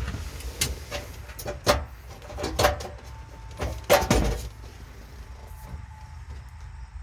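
A handful of sharp knocks and clunks, about four over four seconds, the loudest about four seconds in, like things being handled or a door or panel moving.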